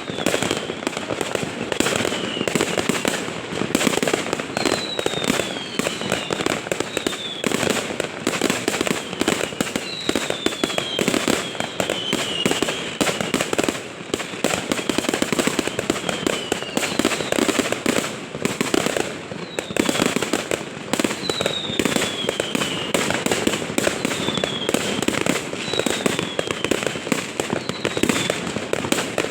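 Fireworks going off without a break: a dense stream of bangs and crackles, with short whistles falling in pitch every second or two.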